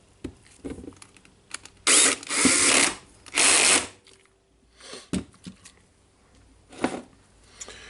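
A screw being driven into the DeWalt D25003 rotary hammer's mechanism, in three short bursts about half a second each. Small clicks and knocks of parts being handled come before and after.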